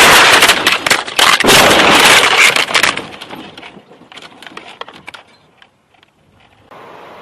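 A loud, harsh crash noise in two long surges, the second ending about three seconds in, then scattered cracks and clatter dying away. A steady hiss starts near the end.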